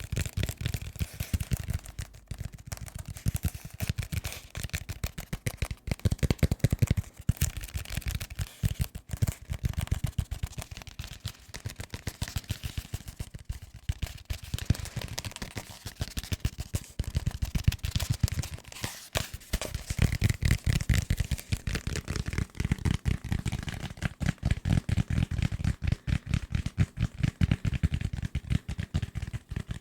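Fingers tapping fast and hard on assorted desk objects: a dense run of quick taps and knocks with low thuds beneath them, pausing briefly about two-thirds of the way through.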